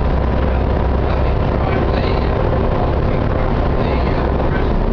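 Volvo B7TL double-decker bus running, a steady heavy engine rumble with a steady whine over it.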